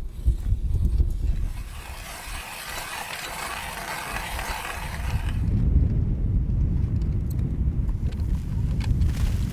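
Strong wind buffeting the microphone as a low rumble. From about two seconds in it gives way to a bright hiss, then the rumble returns a little past halfway.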